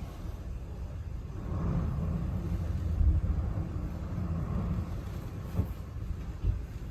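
A low, uneven rumble with a rushing hiss that grows louder about a second and a half in. Two brief knocks come near the end.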